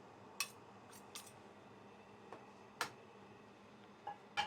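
Kitchen utensils handled at the stove: about six light clicks and taps, the sharpest near three seconds in.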